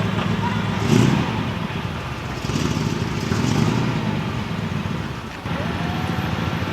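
A motor vehicle's engine running close by, with a steady low rumble that surges louder about a second in and again around three seconds in.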